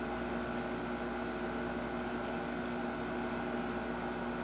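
Steady hum of reef-aquarium equipment, pumps and flowing water, with a constant whine over an even hiss.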